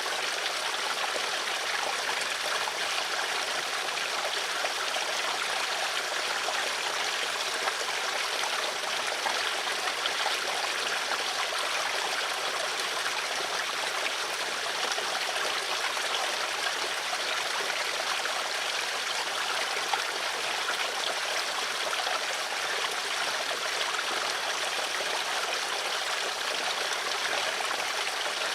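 Flowing stream water, a steady trickling and splashing hiss with no change or break.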